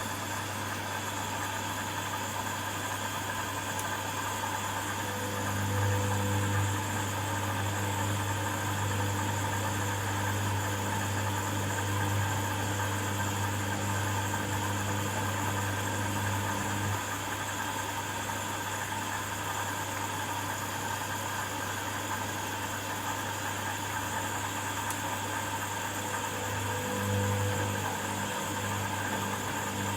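Hoover front-loading washing machine in the first rinse of a cottons programme: a steady low hum throughout. The drum motor tumbles the load from about five seconds in, stops abruptly around seventeen seconds and starts again near the end.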